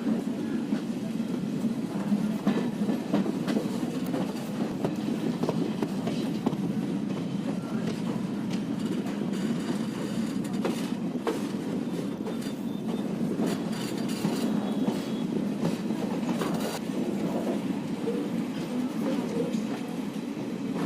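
Moving passenger train heard from on board: steady running noise of the coaches on the track, with a constant scatter of wheel clicks over the rails.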